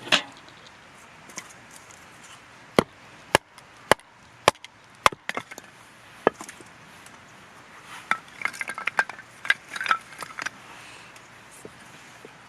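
A run of sharp, hard knocks about every half second, followed by a few seconds of quicker clattering.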